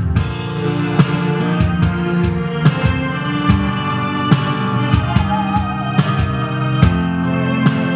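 Musical saw playing a slow melody with wide, wavering vibrato over a backing track of drums and keyboards. The saw's wavering line stands out clearly from about five seconds in.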